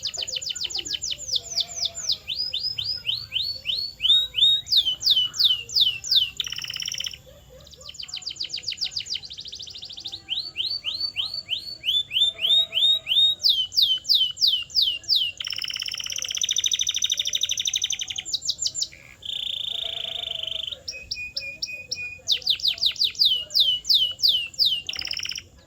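Canary singing a long, continuous song: phrase after phrase of rapidly repeated, downward-sliding whistled notes, each phrase at its own pitch and speed, with a dense buzzy roll in the middle and brief pauses between some phrases.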